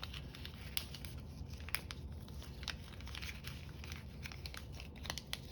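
A strip of paper being handled and worked into a knot: faint, scattered crinkles and rustles.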